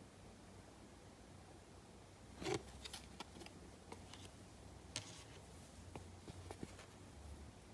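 Faint handling of Topps Chrome trading cards: a few light clicks and rustles starting about two and a half seconds in, over low room hiss.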